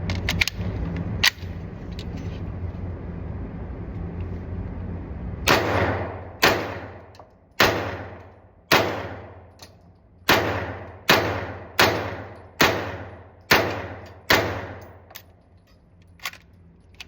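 About ten suppressed 9mm shots from a MAC5k pistol fitted with a short Rugged Obsidian 9 suppressor, fired singly at roughly one a second, each with a tail that dies away. A few faint clicks come before the first shot.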